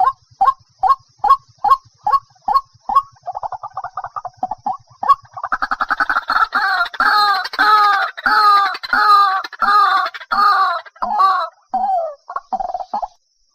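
White-breasted waterhen calling. First comes a run of evenly spaced single notes, about three a second, then a quick trill. Then comes a loud series of repeated, rich croaking notes that slows and breaks up near the end.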